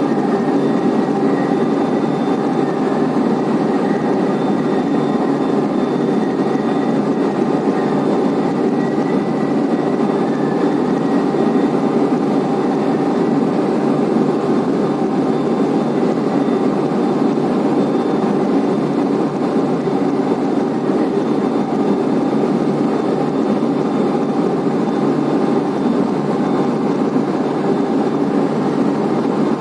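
Steady, loud mechanical drone of a blast furnace's main belt charging conveyor running, with a faint steady whine above it.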